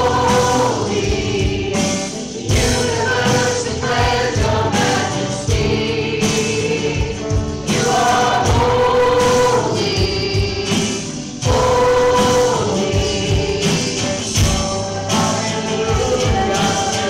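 Gospel choir singing with instrumental accompaniment, sustained notes changing every few seconds.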